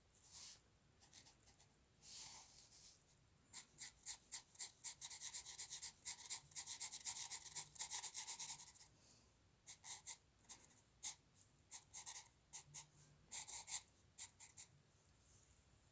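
A drawing tool scratching on paper in short, quick strokes, faint. The strokes come thick and fast in the middle, then fall to scattered single strokes.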